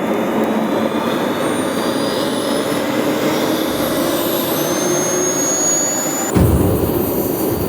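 Small model-aircraft jet turbine starting up, its high whine climbing steadily in pitch over a loud rushing noise. About six seconds in the whine stops and a heavy low rumble takes over.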